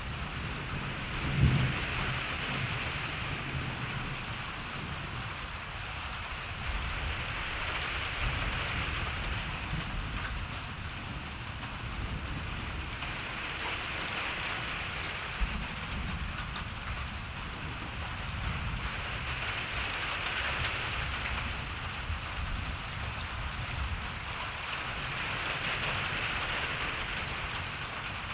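Steady rain hissing on surfaces, swelling and easing every few seconds, under low rolling thunder. There is a heavier thunder thud about a second and a half in, and a single sharp tap near the middle.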